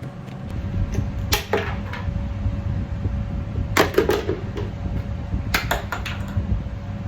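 Knocking and scraping in a small, hollow metal space, in three short clusters about a second and a half in, around four seconds in and near six seconds, as sound-deadening mat is worked against a van's panels. A heater's steady hum runs underneath.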